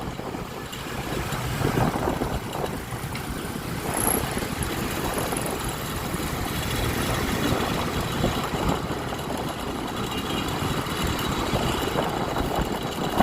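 Honda Click 125i scooter engine running steadily amid city street traffic.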